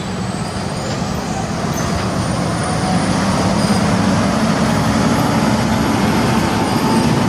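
Heavy diesel truck passing in road traffic, its engine rumble growing louder over the first few seconds, then holding steady.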